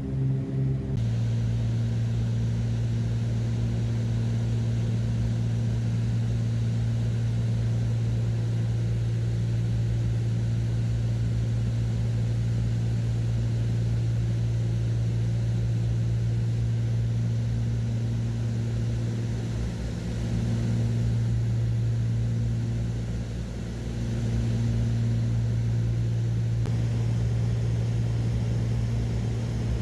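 Cessna 402's twin piston engines and propellers droning steadily in the cabin, a low hum with overtones. The level dips briefly about twenty seconds in and again a few seconds later.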